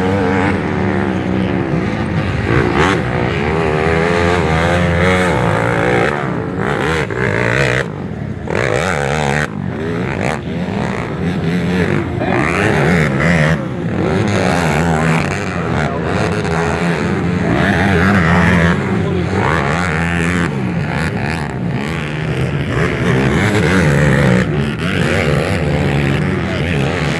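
Motocross dirt bikes racing on the track, several engines revving up and falling back as the riders work through the course.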